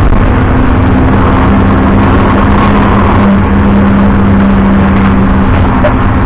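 BMW 330i E90's inline-six engine running at a steady, constant speed with no revving, over a noisy haze of road and tyre sound.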